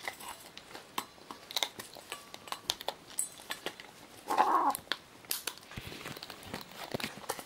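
Scarlet macaw making a series of sharp clicks, like beak clicking or gnawing, with one short harsh squawk about four seconds in.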